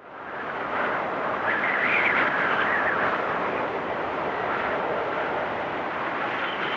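Blizzard wind blowing steadily, fading in over the first second, with a whistling gust that rises and falls about two seconds in.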